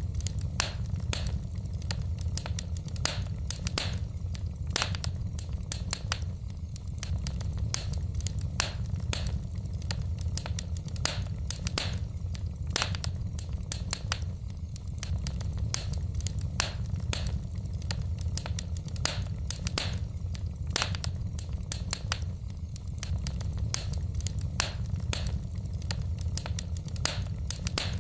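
Wood fire burning in a fireplace, the logs crackling with irregular sharp snaps and pops, several a second, over a steady low rumble.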